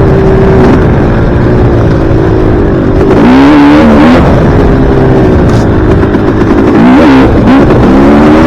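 Dirt bike engine running hard under way. The revs drop and climb back twice, about three seconds in and again about seven seconds in.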